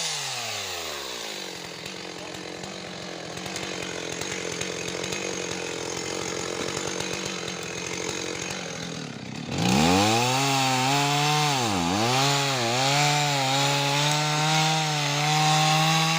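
Two-stroke chainsaw running and cutting wood. Its pitch falls at the start and it runs rough for about nine seconds, goes quiet for a moment, then revs up loud and high. The revs sag three times, as under load in the cut, before holding at a steady high pitch.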